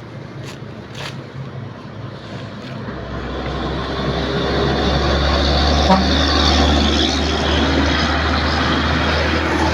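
A heavy vehicle's engine running close by, with a low rumble that swells about three seconds in and then holds steady and loud.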